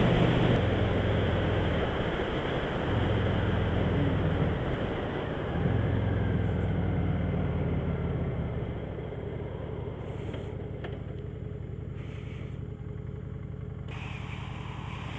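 Honda VT750 motorcycle's V-twin engine running under way with wind rush, its note stepping up and down with the throttle a few times; about nine seconds in both drop quieter.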